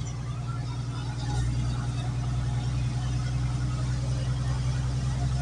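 Car engine running steadily under way, heard from inside the cabin with road noise; the engine note gets a little louder about a second in.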